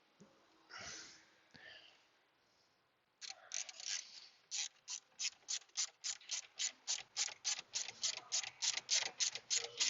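A few faint handling knocks, then from about three seconds in a hand ratchet clicking steadily, about four clicks a second, as a bolt is run in.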